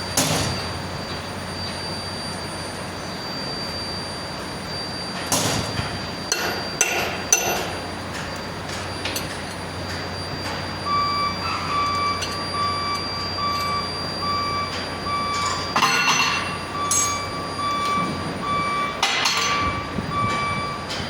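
Scattered sharp metal knocks and clinks of hand tools, a cluster about a quarter of the way in and more later on, over a steady low hum. From about halfway a regular on-off beeping, like a vehicle's reversing alarm, sounds steadily.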